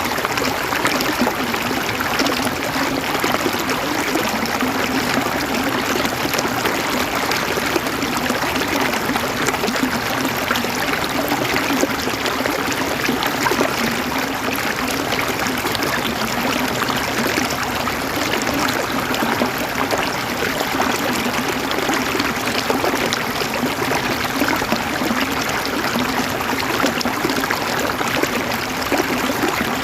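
River water running over stones: a steady splashing and gurgling rush.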